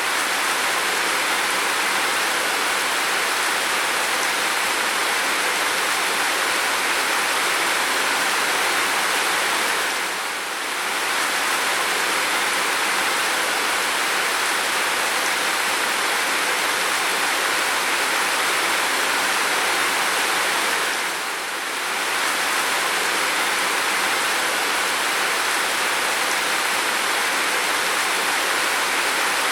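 Heavy rain falling steadily, a continuous even hiss that briefly dips slightly about ten seconds in and again about twenty-one seconds in.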